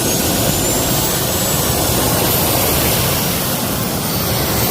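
Jet engine running steadily: a loud, even rush of noise with thin high-pitched whining tones from the turbine that drift slowly upward.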